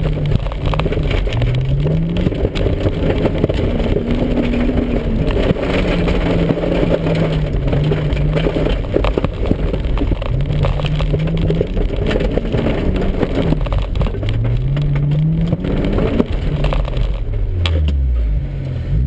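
MG ZS160's engine heard from inside the car, revving up and dropping back again and again as the car accelerates and slows between cones, with tyres crackling and scraping over dry stubble. Near the end the revs fall to a low, steady note.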